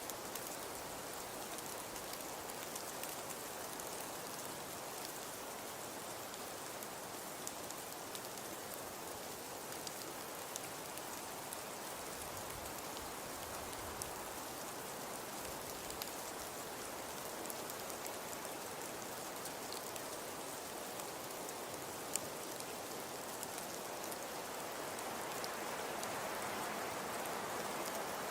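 Fireplace crackling: a steady soft hiss with scattered small pops and clicks, a few of them sharper, growing a little louder near the end.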